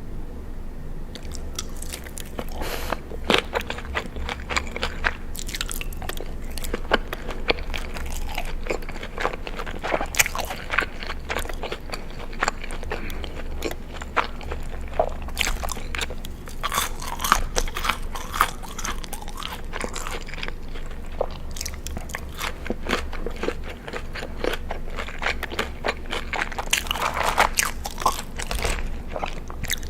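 Close-miked eating sounds: a dense, irregular run of crisp crunching bites and chewing, with a low steady hum underneath.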